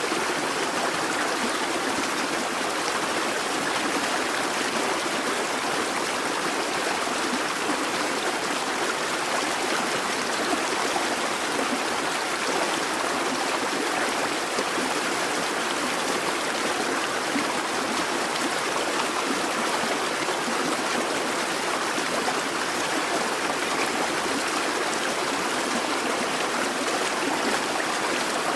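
A busy babbling brook: water rushing and burbling steadily over stones.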